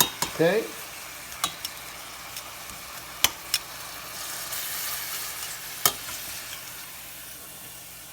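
Cube steaks sizzling as they sear in a frying pan, the sizzle swelling for a second or so about halfway through. A few sharp clicks sound over it.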